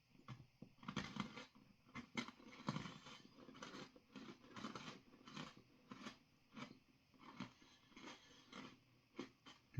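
Faint, irregular crunching and chewing of a dry, crumbly freeze-dried ice cream sandwich bar in the mouth.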